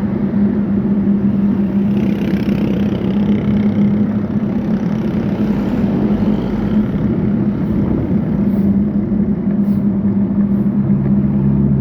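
Road traffic: a vehicle engine running at a steady pitch over continuous road noise, with a second, lower engine note joining near the end.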